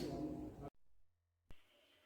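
Near silence: the tail of a voice fades out in the first moment, then a dead-silent gap, a single brief click about one and a half seconds in, and faint hiss.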